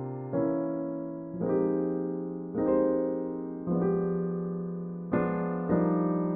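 Slow, gentle piano music: chords struck roughly once a second, each left ringing and fading.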